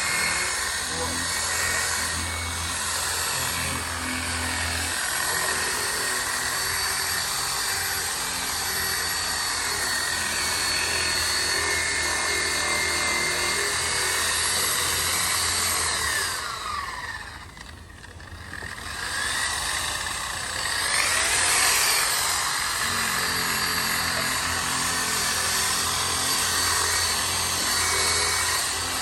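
An electric power tool's motor running steadily. About 16 seconds in it winds down, briefly falling quiet, then spins back up and runs on.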